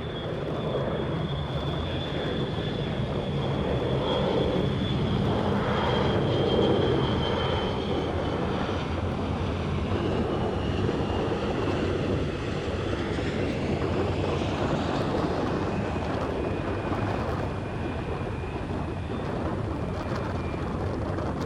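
Jet airliner's turbofan engines at takeoff thrust during a departure: a steady heavy rumble with a high fan whine that slowly falls in pitch as the jet goes by.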